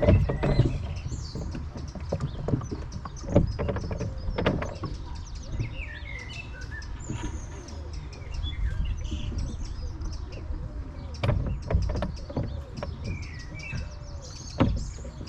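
Small birds chirping and singing over a low rumble of wind on the microphone, with occasional knocks from the rowboat and its oars. A repeated short call sounds about once a second in the second half.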